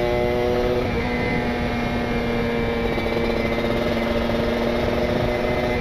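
Kawasaki Ninja RR two-stroke engine running at a steady, constant pitch under way, through an R9 aftermarket exhaust, with its PWK28 carburettor jetted rich. Wind rumbles low on the microphone.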